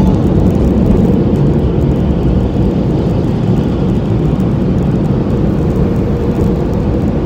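Automatic car wash machinery working over the car, heard from inside the cabin: a loud, steady rumble with a faint steady hum.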